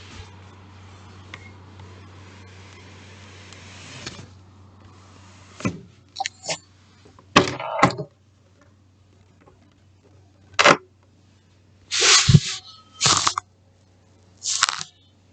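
A steady low hum with faint hiss, then from about five seconds in a string of short, loud knocks and clattering handling noises close to the microphone, about seven in all.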